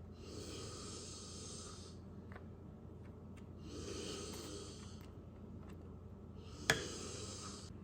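Slow breathing close to the microphone: two long breaths a few seconds apart, with one sharp knock near the end.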